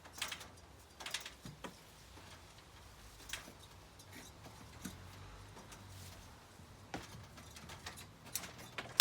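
Scattered light clicks and knocks of things being handled, irregular and a second or so apart, with a sharper knock at the very end over a low steady hum.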